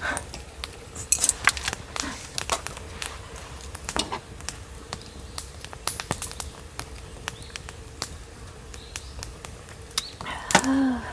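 Irregular light clinks and taps of metal camp cookware and utensils being handled. Near the end comes a short hummed sound from a person's voice.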